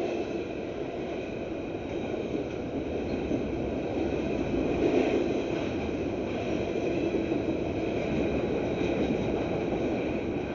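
Union Pacific freight train's cars rolling past steadily, a continuous rumble of wheels on rail with faint high steady tones above it, swelling slightly about halfway through.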